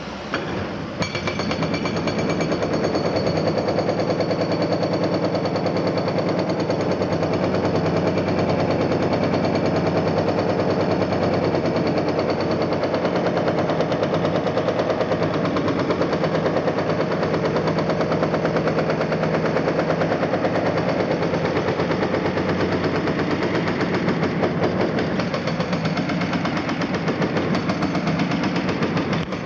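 Hydraulic breaker hammer on a Cat 330F excavator pounding in a rapid, steady stream of blows, starting about a second in. The excavator's diesel engine runs steadily underneath.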